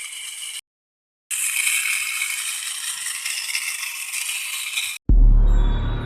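Small homemade gearbox with metal gears running, giving a fast, high-pitched gear rattle. It stops briefly near the start, then runs again for about four seconds and cuts off. About five seconds in, loud music with a deep bass starts.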